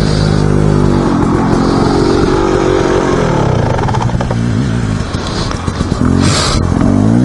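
Dirt bike engine running under way, its pitch rising with throttle about a second in and again near the end, and dropping off in between.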